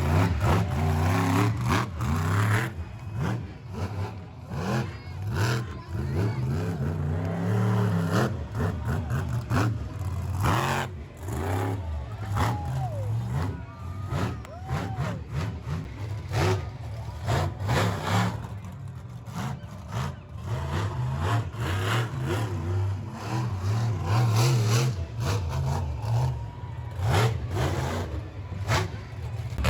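Large vehicle engines running and revving up and down repeatedly, a deep rumble that rises and falls throughout.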